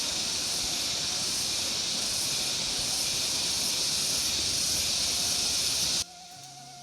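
Heavy rain making a steady, even hiss that cuts off suddenly about six seconds in.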